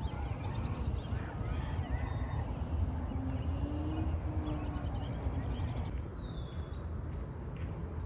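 Birds chirping and calling, short chirps, a quick trill and a curved whistle, over a steady low rumble.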